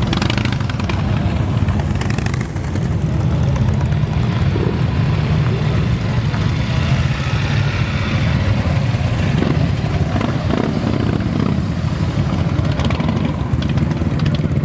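Several motorcycle engines running together at low speed, a steady deep rumble with revs rising and falling as the bikes ride in.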